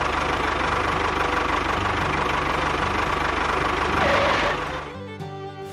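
An engine running steadily with a fast, even chugging pulse, like a tractor engine idling, cutting off about five seconds in as music starts.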